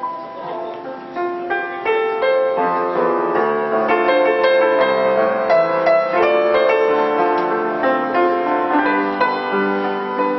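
Piano playing: a melody over chords, with many notes struck and left ringing, fuller and louder from about two seconds in.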